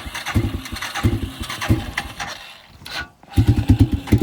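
A small engine being cranked and sputtering, firing in fast, uneven pulses. It dies down for a moment, then catches again about three and a half seconds in with a rapid, steady beat. It won't hold an idle, because it is short of fuel and needs the choke.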